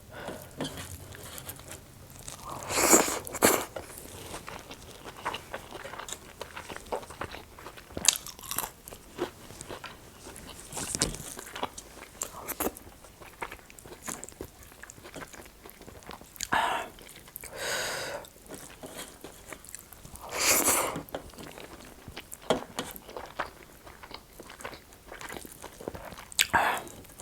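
Close-miked mukbang eating sounds: crunchy bites and chewing, with louder crunches every few seconds and small mouth clicks between them.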